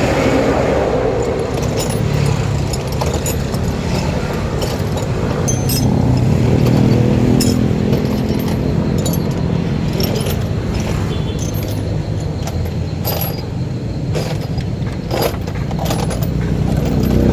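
An engine running steadily, its pitch drifting up and down a little, with scattered metallic clinks over it.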